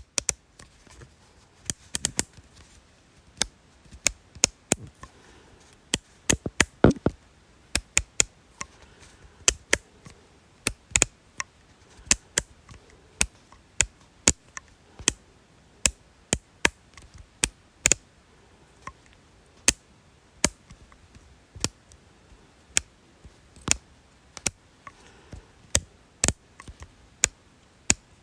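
A long run of sharp, crisp clicks at uneven intervals, about one or two a second, some coming in quick pairs.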